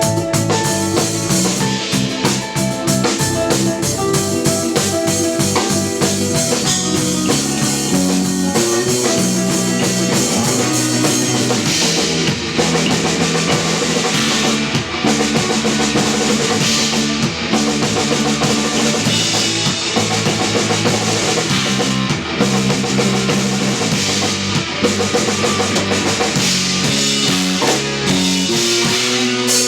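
Live instrumental post-rock played by a power trio of electric guitar, electric bass and drum kit: sustained guitar and bass lines over a steady drum beat.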